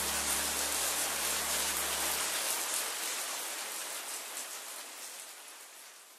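Steady rain, a dense patter of drops, fading out gradually over the last few seconds. Under it the last low held note of the music stops about two seconds in.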